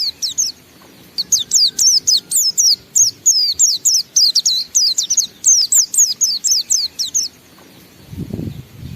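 White-eye (pleci) singing its long, unbroken 'ngalas' song: a fast run of high, falling notes at about five a second. It breaks briefly about half a second in, resumes, and stops a second or so before the end.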